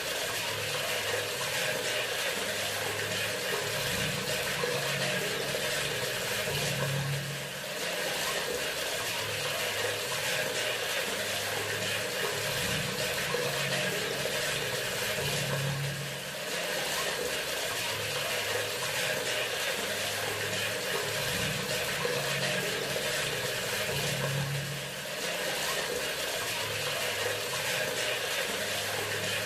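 Bathroom sink faucet running in a steady stream of water, with a brief dip in level about every eight or nine seconds.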